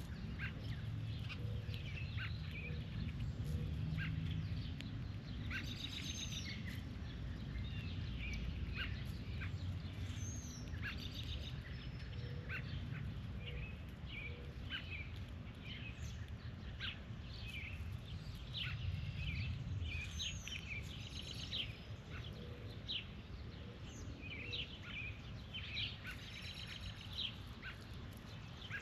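Outdoor birds calling with many short, scattered chirps over a steady low rumble.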